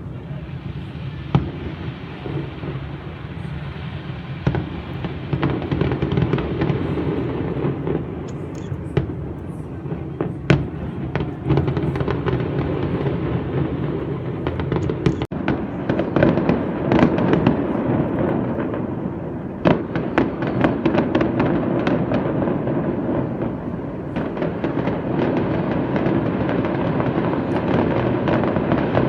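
Aerial fireworks going off in a rapid barrage: a continuous rumble of shell bursts with many sharp cracks and bangs, thickest around the middle of the stretch.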